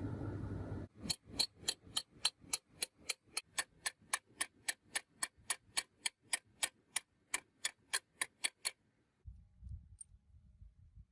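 A fast, even run of sharp ticks, about three or four a second, lasting some seven seconds, after a steady noise cuts off suddenly near the start. A faint low rumble follows near the end.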